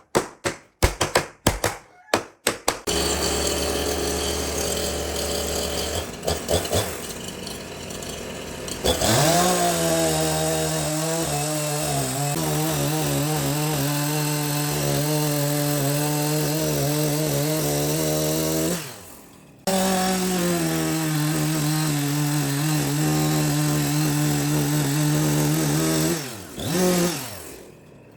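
A few sharp taps, then an electric power tool's motor starts and runs steadily on wood. It winds down, starts again, and winds down once more near the end.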